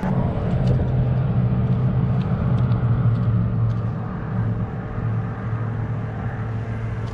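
A steady low motor drone, like an engine running close by, with a few faint ticks over it.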